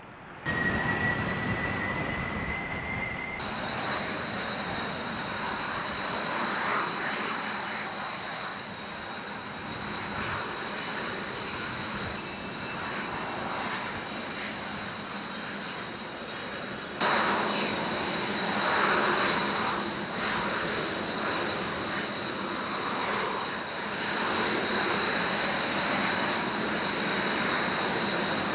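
Kawasaki T-4 jet trainers' turbofan engines running on the ground before takeoff: a steady high whine over a rushing noise, with strong wind buffeting the microphone. A slowly rising whine is heard in the first few seconds, and the sound steps abruptly louder about halfway through.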